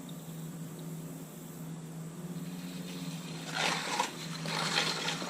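Small die-cast toy motorcycles running down a plastic toy race track, rattling and clattering from about three and a half seconds in, over a steady low hum.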